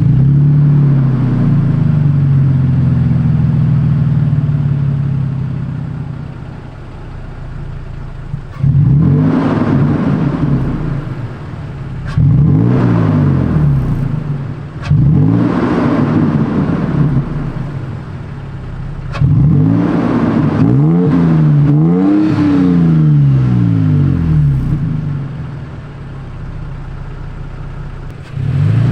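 A Toyota Tacoma pickup's engine running through a MagnaFlow Overland cat-back exhaust. It starts on a fast idle that settles down, then is revved about four or five times. Each rev rises sharply and falls back to idle.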